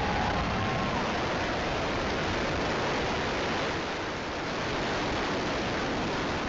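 Falcon 9 first stage's nine Merlin rocket engines firing just after liftoff: a steady, even rushing noise with no distinct tones, easing slightly about four seconds in.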